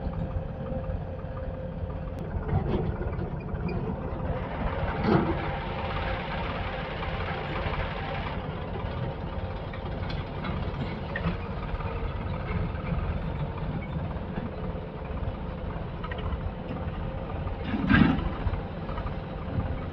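Diesel engine of heavy machinery running steadily. There is a short thump about five seconds in and a louder thump near the end.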